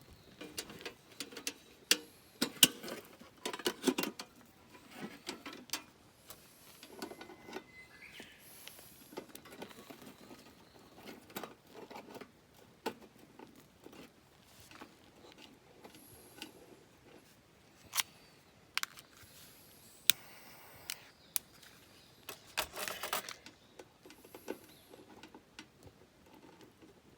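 Irregular handling noises: scattered sharp clicks and light knocks with brief rustling, busiest in the first few seconds and again near the end.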